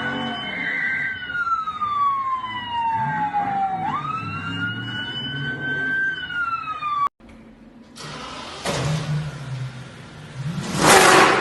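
An emergency vehicle siren wailing in slow cycles, each jumping up, climbing a little, then sliding down over a few seconds, over vehicle engine rumble. After an abrupt cut, a rush of noise swells to a loud peak near the end as a vehicle goes past.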